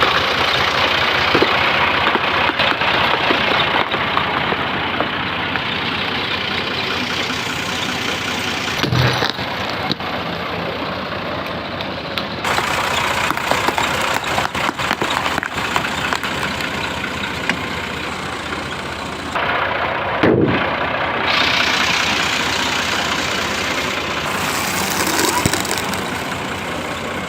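Tractor engine running steadily, heard across several abruptly cut-together clips, with a brief low thump about nine seconds in and another about twenty seconds in.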